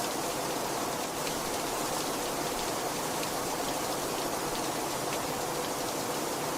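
Heavy rain falling steadily, a dense even hiss with scattered individual drops pattering.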